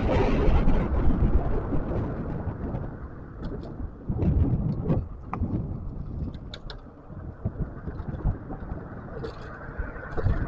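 Wind buffeting the microphone and a low road rumble while riding a scooter over rough pavement. The rumble is loudest for the first couple of seconds, then eases, with scattered sharp knocks from bumps.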